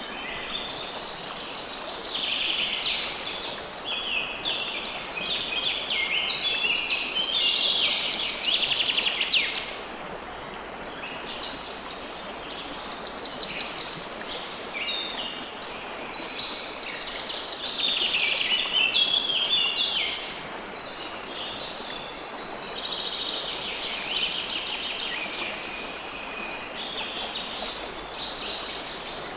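Steady rush of river water under several songbirds singing, their overlapping phrases growing louder twice, about a quarter of the way in and again about two-thirds of the way in.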